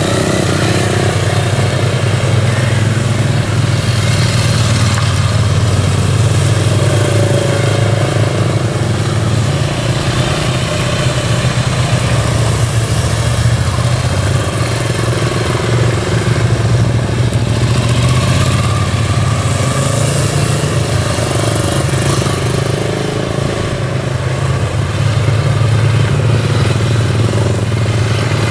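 Motorcycle engine running at low speed, its pitch rising and falling a little with small throttle changes during slow riding.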